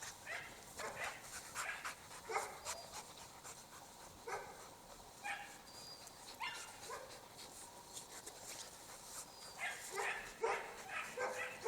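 Norwegian Elkhounds making short barks, yips and whines at scattered moments while playing, the calls coming thicker in the last couple of seconds.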